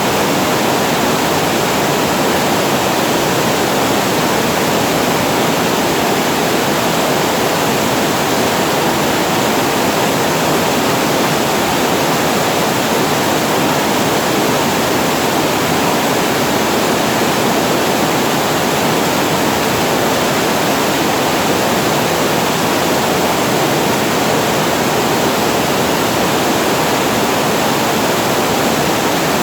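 Water pouring over a reservoir weir and falling into the pool below: a loud, steady rush that does not change.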